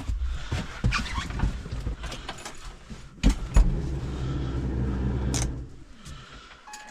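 Starter motor cranking a Deutz-Fahr 5120G tractor's diesel engine on a low battery, without it catching, with a couple of sharp clicks partway through. The cranking stops about six seconds in.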